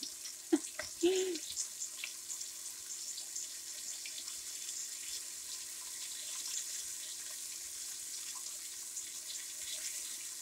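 Flour-dredged chicken breasts searing in olive oil in a deep pan: a steady sizzle with small crackles.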